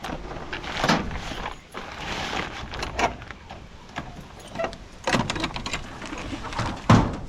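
Makeshift chicken-coop door rattling and scraping as it is handled, in irregular noisy bursts with a sharp knock near the end.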